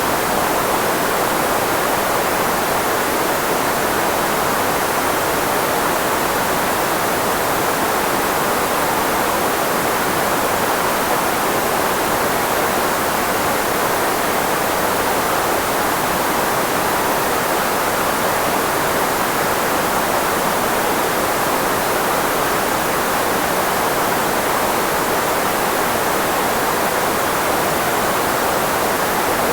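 Steady synthetic filtered white noise, shaped to cover the range of human speech: an even hiss with most energy in the middle range and little bass, unchanging throughout.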